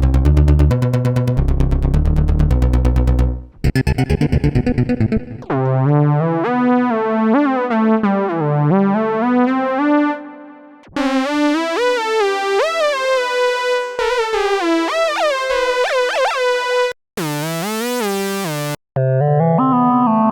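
Roland System-100 software synthesizer playing a series of factory presets one after another, with short gaps between patches. First comes a pulsing low bass pattern, then a bright pulsing tone, then lead melodies that slide between notes, and near the end a short bright chord.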